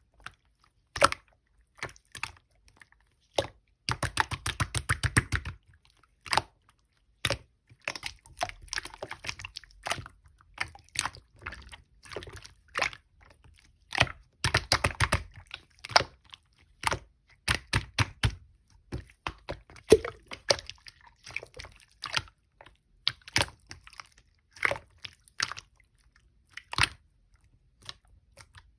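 Hands squishing and pressing slime: scattered sharp clicks and several dense runs of rapid crackling as air pockets in the slime pop.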